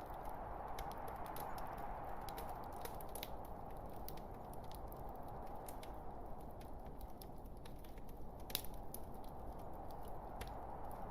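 Wood fire of burning logs crackling: a steady soft rushing of the flames with irregular sharp pops and snaps, the loudest pop about eight and a half seconds in.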